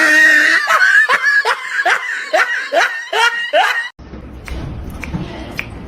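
Laughter in a run of short rising bursts, about two or three a second, that breaks off suddenly about four seconds in. A quieter low rumble with faint clicks follows.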